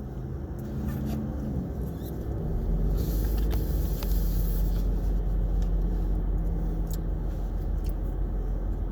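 Low, steady vehicle rumble heard from inside a car, swelling about two and a half seconds in, with a brief hiss and a few light clicks.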